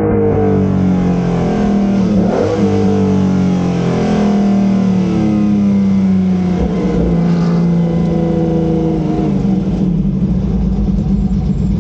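1981 BMW M1 IMSA race car's straight-six engine heard from inside the cabin, running loud with its pitch falling as the car slows. There is a quick rev blip about two seconds in, and the engine settles to a low steady note near the end.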